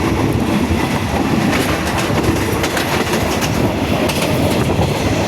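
Passenger train running along the track: a steady rumble with scattered clacks of the wheels over the rails.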